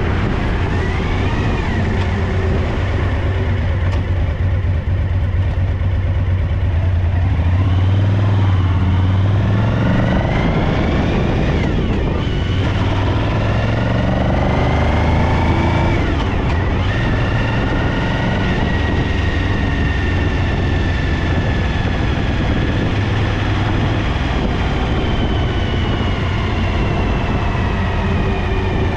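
Suzuki DL1000 V-Strom's V-twin engine running steadily, its note rising and falling several times, with a misfire on the rear cylinder.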